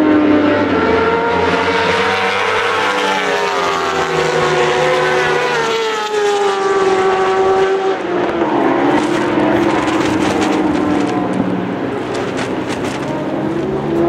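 Racing motorcycle engines running at high revs out on the circuit, with no bike in view: the pitch climbs and drops in steps as the riders shift gears and brake for corners, falling clearly about halfway through before climbing again.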